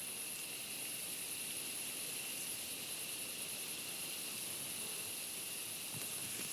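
Night insects calling in a steady chorus, a continuous high-pitched hiss with no break.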